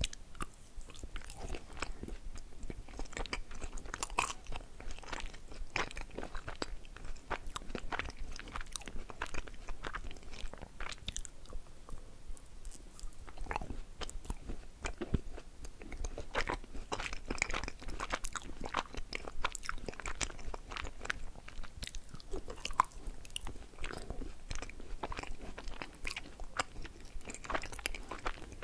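A person biting and chewing a piece of swirled halva close to a microphone, the crumbly confection giving a steady run of irregular crisp crunching clicks. The chewing eases into a short lull near the middle, then picks up again.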